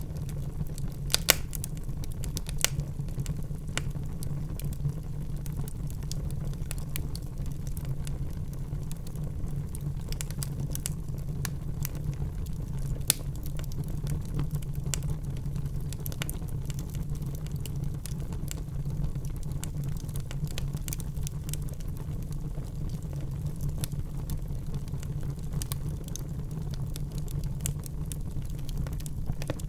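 Wood fire in a fireplace crackling: irregular sharp pops and snaps over a steady low rumble, with a few louder pops near the start and one about halfway through.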